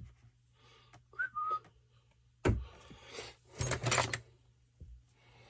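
A man whistles two short falling notes about a second in. Then come two loud bursts of clattering as tools are moved about on a workbench, the second with some ringing metallic clinks.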